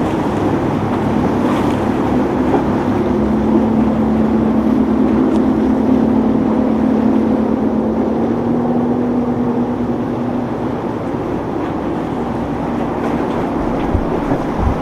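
Motorboat engine running steadily over wind and surf, a low hum that is strongest in the middle and fades away after about ten seconds.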